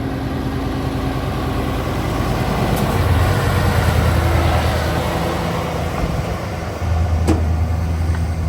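Scania R660's V8 diesel engine running with a deep, steady note. It grows louder about three seconds in and jumps up again about seven seconds in, with a brief click just after.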